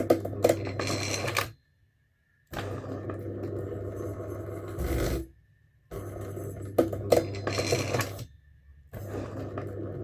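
Small electric motor rigged to a Polymas hot-print press, running in repeated spells of two to three seconds with short pauses between them as it works the press lever in place of a hand. It runs with a steady hum, and sharp clicks and knocks come from the mechanism.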